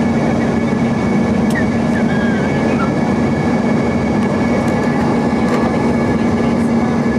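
Cabin noise inside an Embraer ERJ-145 regional jet: the steady rush of its Rolls-Royce AE 3007 turbofan engines and airflow, with a low steady hum and two thin high whines running through it.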